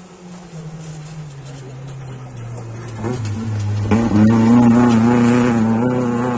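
Rally car engine approaching at speed, growing loud about three seconds in and at its loudest a second later, then starting to fade as it goes by.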